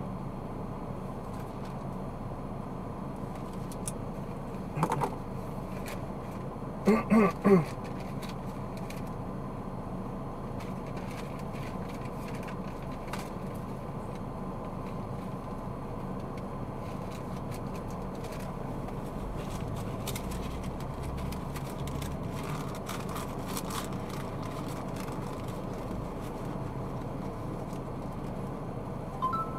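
Steady road and engine noise of a car as picked up by a dashcam while driving. About five seconds in there is one short pitched sound, and around seven seconds in a quick run of three louder short pitched sounds.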